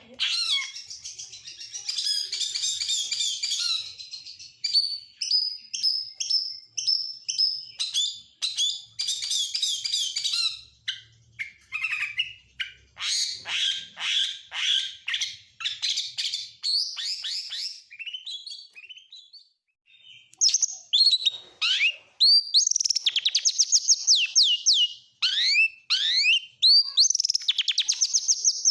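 Oriental magpie-robin (kacer) singing a long, varied song packed with imitations of other birds ('isian'): quick whistles and chatters, a short pause a little past halfway, then fast runs of sharply falling notes.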